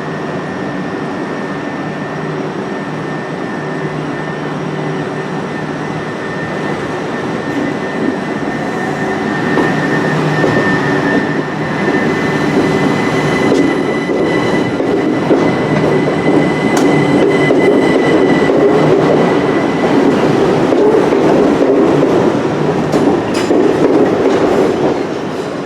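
Passenger train moving along the track, with a steady high whine over a low hum. It grows louder about a third of the way in, and sharp wheel clicks over rail joints come in the second half.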